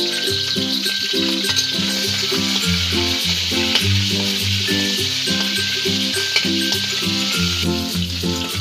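Prawns and garlic sizzling as they fry in hot oil in a wok, with a spatula stirring them. Background music with a slow melody and bass notes plays underneath.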